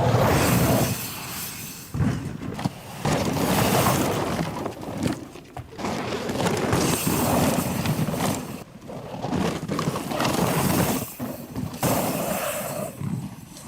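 Mountain bike ridden hard downhill: loud rushes of tyre noise and rattling frame and chain, with knocks from impacts, in surges broken by short gaps. It fades out near the end.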